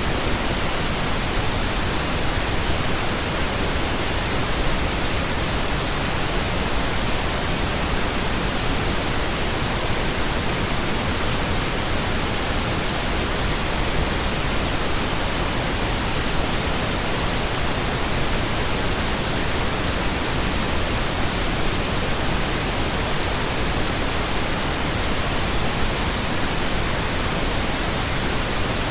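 Steady pink noise: an even, unchanging hiss spread across all pitches, a little fuller in the low end than white noise.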